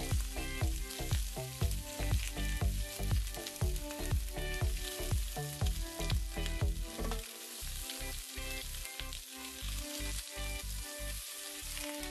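Chicken wings sizzling as they fry skin side down in hot oil in a wok, a steady hiss as more wings go in. Background music with a steady beat plays over it.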